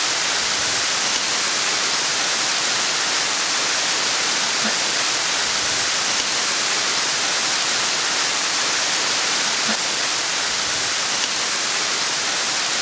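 Waterfall pouring in a steady, unbroken hiss.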